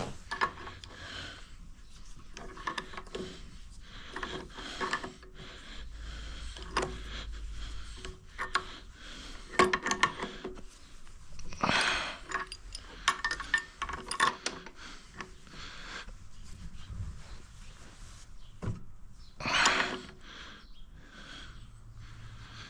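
Hand work on metal pipe fittings: irregular clinks, knocks and scraping as an elbow fitting is handled and screwed into the plumbing, with a few louder rasps about halfway through and again near the end.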